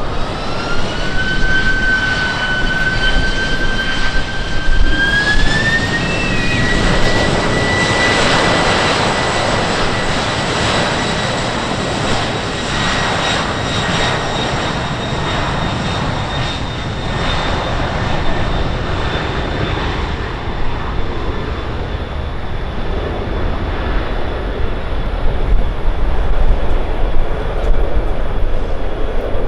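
An airplane's engines at close range: a high whine rises in two steps over the first several seconds and then holds steady, over a rush of engine noise that is loudest in the middle and eases off in the second half.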